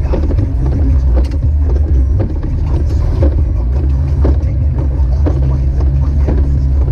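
Jeep Wrangler YJ driving on a snowy road: a steady low engine and road drone, with frequent short knocks and rattles over it.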